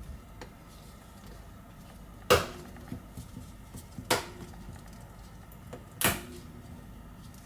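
Three sharp clicks about two seconds apart, with a few faint ticks between them: the iPhone 11's screen being pressed and snapped into its frame during reassembly.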